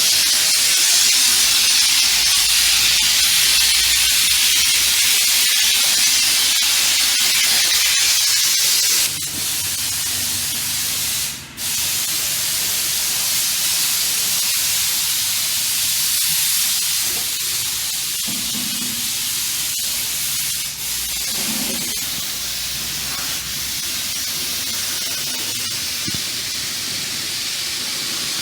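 Jet of water spraying steadily in a loud hiss while a truck is washed, letting up a little about nine seconds in, with a brief break a couple of seconds later.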